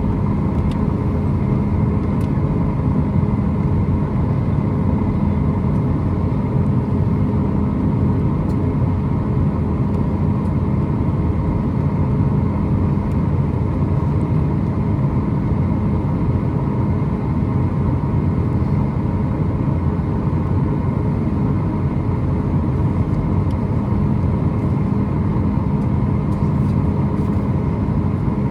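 Steady cabin noise of a Boeing 737 MAX 8-200 with its CFM LEAP-1B engines running, heard from a window seat near the wing. It is a constant low rumble with a steady hum, unchanging in pitch or level.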